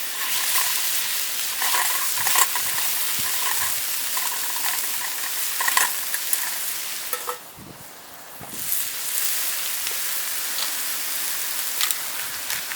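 Food sizzling as it fries in a pan over a campfire, with a utensil stirring and scraping. The sizzle drops away for about a second roughly seven and a half seconds in, then resumes.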